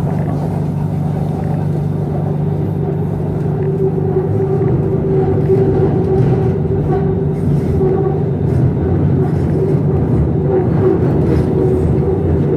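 Running noise inside a moving BTS Skytrain car: a steady rumble with a constant low hum and a higher steady tone, growing a little louder about four seconds in.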